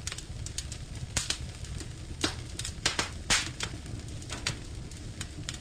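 Wood fire crackling in a fireplace: irregular sharp pops and snaps over a steady low rumble, the loudest pop a little past the middle.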